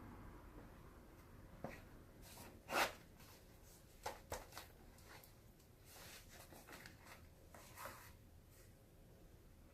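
Faint handling noises: scattered light clicks and rustles, with one louder brief rustle about three seconds in.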